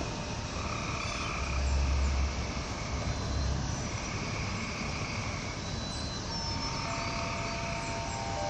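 Frogs calling in a chorus, in trilling pulses that swell every few seconds, over a low rumble. Wind chimes ring with sustained tones from about six seconds in.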